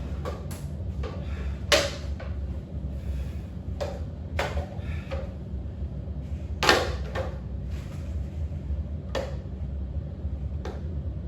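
A handful of scattered knocks and thuds in a small room, the loudest about two seconds in and again near seven seconds, over a steady low hum.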